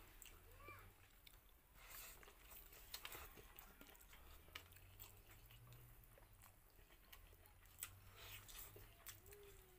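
Faint close-up chewing while eating by hand, with scattered soft clicks of the mouth.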